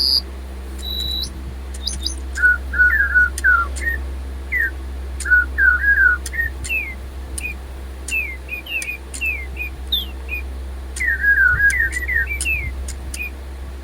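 Silverlit DigiBird robot toy birds playing electronic birdsong: many quick chirps and short rising and falling whistles, with a brief high beep about a second in. The birds are running on low batteries.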